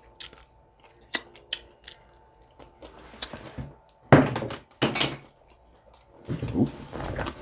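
Close-miked chewing and wet mouth clicks while eating air-fried chicken drumstick meat. Two louder short bursts come about four and five seconds in, and a louder stretch follows near the end.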